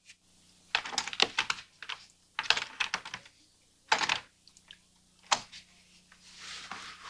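A locked motel-room door being tried from outside: several short bursts of clicks and knocks from the door and its handle, with pauses between them.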